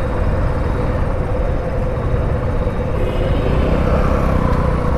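Hero Passion Xtec's small single-cylinder engine running at low riding speed, with steady wind rumble on the rider's microphone.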